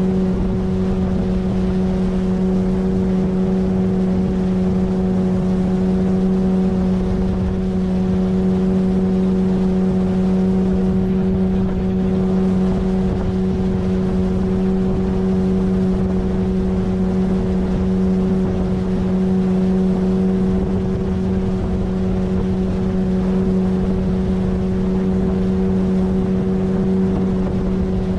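A 9.8 hp outboard motor on an inflatable PVC boat, running at a steady cruising speed with an even, unchanging engine note.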